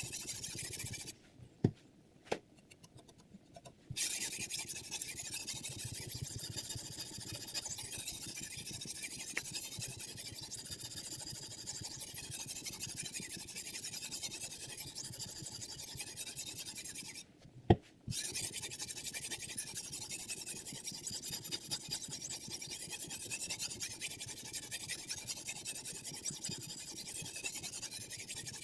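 Sharpening stone on a KosiM guided sharpener rasping back and forth along the steel edge of a chef knife in a steady run of strokes. Twice it pauses, about a second in and again about seventeen seconds in, with a sharp click or two in each pause.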